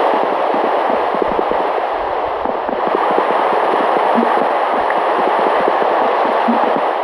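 Heavy rain falling, a steady dense crackle of countless drops.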